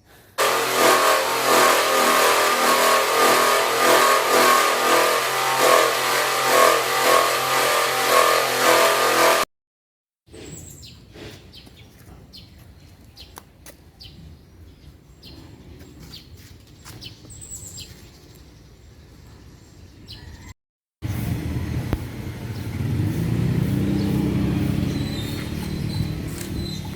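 Electric power saw running hard through dense timber, a steady motor note with a fast rhythmic chatter. After a cut, quieter knocks with a few bird chirps. After a second cut, a motor revs up and holds.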